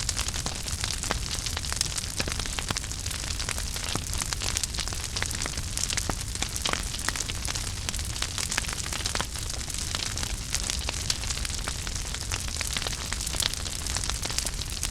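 Wood fire burning in a fireplace, with dense irregular crackles and pops over a steady low rumble of the flames.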